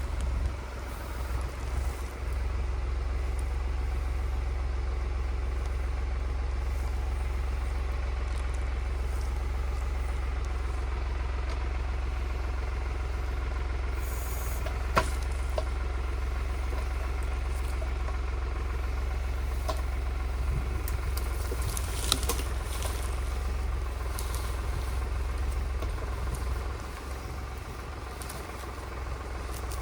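Tractor engine running steadily with a low, even rumble, with a few sharp knocks about halfway through and again about two thirds of the way in.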